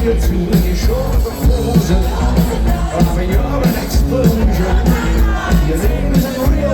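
Live rock band playing loudly, with a steady drum beat, heavy bass and electric guitar.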